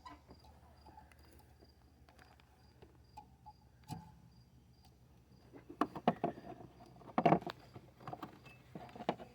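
Scattered metallic clicks and knocks of a screwdriver and parts being worked while fitting the hydro-boost pushrod pin, busiest and loudest in the second half. Crickets chirp in a steady pulse behind it.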